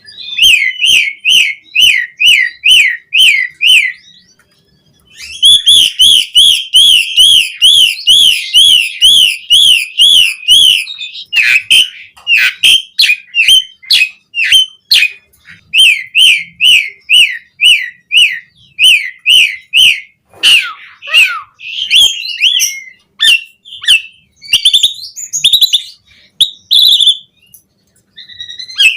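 Asian pied starling (jalak suren) singing vigorously: long runs of rapid, repeated whistled notes. A short pause comes about four seconds in, then the song turns to more varied, broken chattering phrases.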